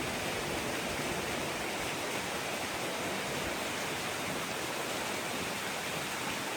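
Steady rush of flowing water, as of a waterfall or fast stream, even and unbroken.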